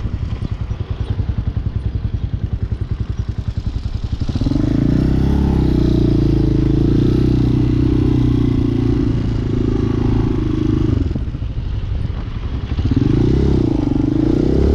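Hawk 250 dual-sport motorcycle's 229cc single-cylinder engine, heard from the bike. It chugs at low revs for about four seconds, then pulls steadily under throttle, eases off briefly near the end and climbs again.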